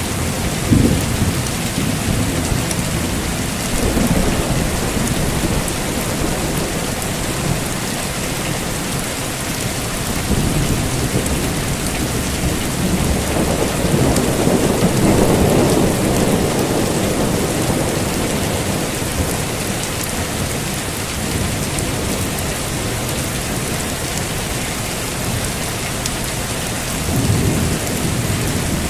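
Heavy rain falling steadily, with rolls of thunder rumbling low beneath it, the longest and loudest roll swelling about midway through and a shorter one near the end.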